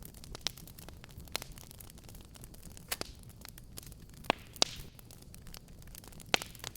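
Wood fire crackling: irregular sharp pops and snaps over a low steady rumble of burning, with the loudest pops about three seconds in, twice in quick succession a little after four seconds, and once more near the end.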